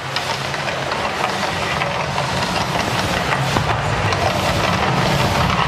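Low, steady rumble from the Mirage volcano show, with a crackling haze over it, slowly growing louder.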